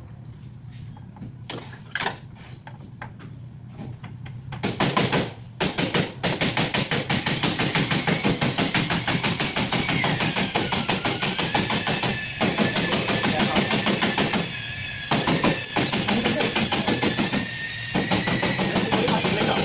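Nissan Maxima engine running with a rapid, even mechanical ticking or knocking, many strikes a second, over a faint wavering whine. The ticking sets in about four seconds in, after a few separate knocks.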